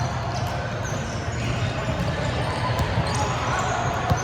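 Volleyball hall ambience: volleyballs being struck and bouncing off the hard court floor in several sharp smacks, over a steady hum and the murmur of distant players' voices.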